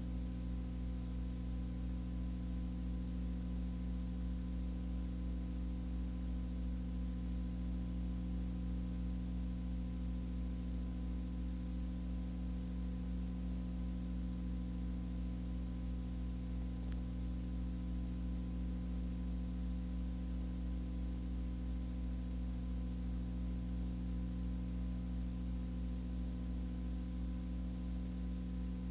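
Steady low electrical-sounding hum made of several constant tones, over an even hiss, with no change throughout.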